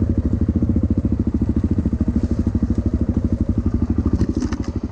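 Dirt bike engine running steadily at low revs, with an even, rapid pulsing exhaust beat and a few faint clicks near the end.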